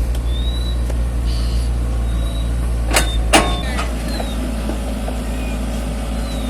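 Mini excavator's engine running steadily, with two sharp knocks about three seconds in, a fraction of a second apart.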